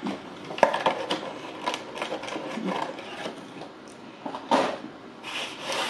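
Close-miked eating: irregular clicks and rustles of chewing and handling food, with no steady rhythm.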